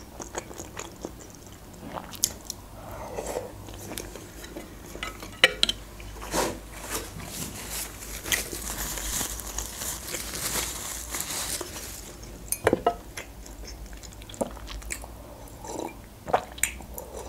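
Close-miked eating: chewing and biting of soft boiled noodles and meat, with wet mouth clicks and smacks scattered throughout. Around the middle there are a few seconds of soft rustling, and near the end a sip from a mug.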